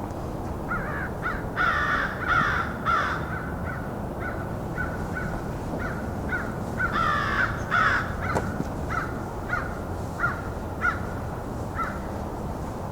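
American crows cawing: a run of loud caws in the first few seconds and another about seven seconds in, then shorter, fainter caws spaced out over the rest of the time.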